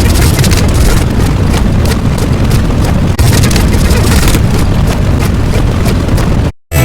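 Loud, continuous rough rumbling noise with a crackly edge, dipping for an instant about three seconds in and cutting off suddenly just before the end.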